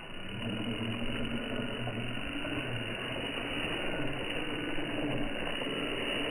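Radio-controlled Jeep 4x4 model's electric motor and gearbox whirring as it drives, the pitch wavering up and down with the throttle.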